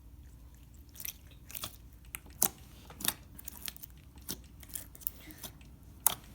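Glitter slime being squeezed and worked in the hands, making irregular wet clicks and pops. The loudest pops come about two and a half seconds in and again near the end.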